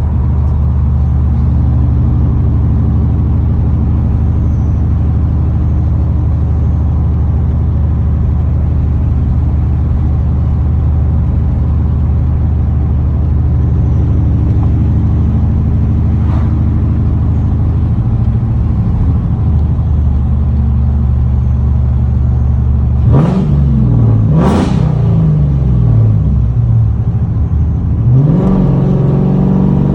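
Straight-piped 2004 Ford Mustang GT's 4.6-litre V8 idling loudly, the idle turning uneven about two-thirds of the way through. Then come two quick throttle blips in a row, each rising sharply and falling back, and another rev starts near the end.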